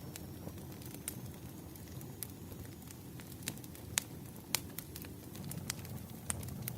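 Wood fire crackling: irregular sharp pops and snaps over a low, steady rumble, with the loudest pops about four seconds in.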